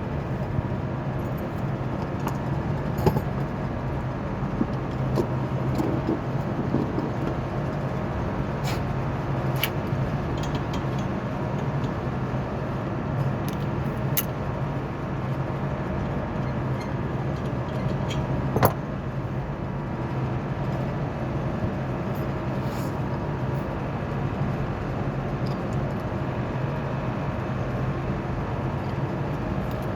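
Steady drone of rooftop HVAC machinery running, with a few sharp metallic clicks and knocks over it, the loudest about two-thirds of the way through.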